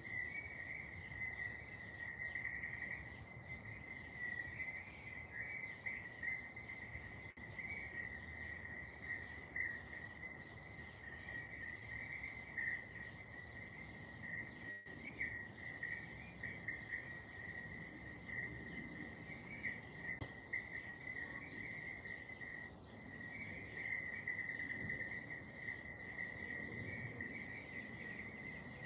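Insects, crickets by the sound of it, trilling continuously at one steady high pitch, with a slight flutter in the trill.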